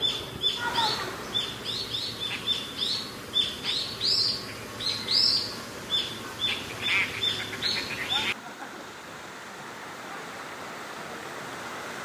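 Birds chirping, short high calls repeated in quick succession several times a second. They cut off abruptly about eight seconds in, and the steady rush of a waterfall follows.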